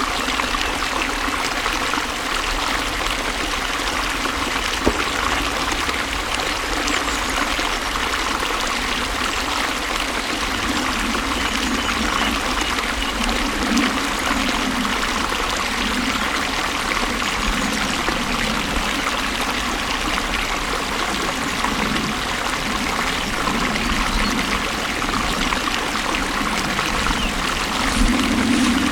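Water flowing steadily, a continuous stream-like rush with trickling.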